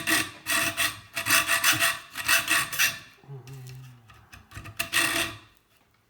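Fast back-and-forth rasping strokes of a hand tool cutting into the metal tube of a scrap kettle heating element. The strokes come in a spell of about three seconds, then a pause, then a shorter spell about five seconds in.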